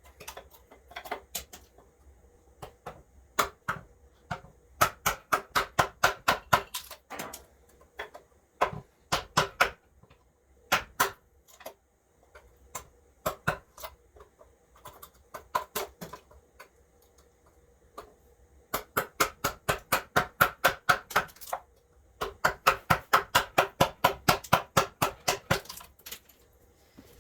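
Chisel being struck quickly into wood, hand-carving. The sharp taps come in runs of about six a second, each with a brief ring, separated by short pauses.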